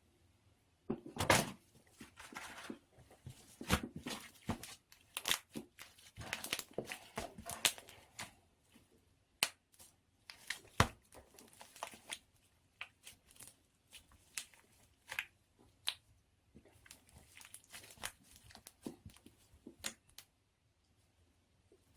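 Pink slime being kneaded and stretched by hand as cloud slime is mixed in: irregular sticky crackles, clicks and tearing sounds, with a short lull near the end.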